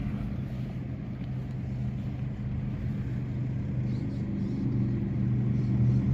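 A motor vehicle engine running with a steady low hum that grows slowly louder, then cuts off abruptly.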